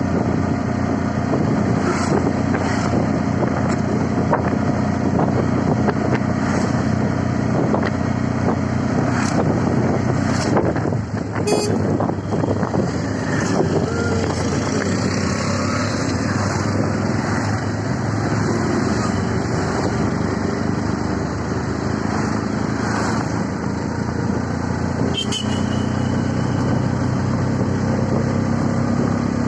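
CNG auto-rickshaw's small engine running steadily on the move, under a continuous hiss of road and rain noise, with a few short clicks.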